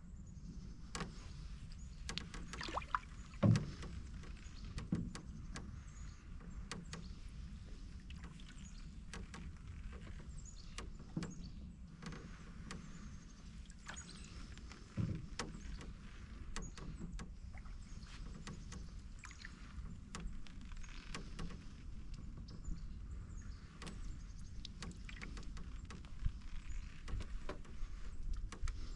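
Canoe being paddled: paddle strokes in the water with scattered knocks and creaks from the canoe, the loudest knock about three and a half seconds in.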